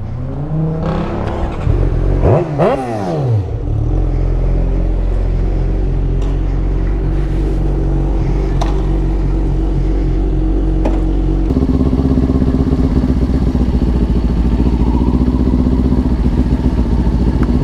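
Motorcycle engine pulling away, its note rising for the first few seconds, then running steadily at cruising speed. About 11 seconds in, the drone steps up a little louder and holds there.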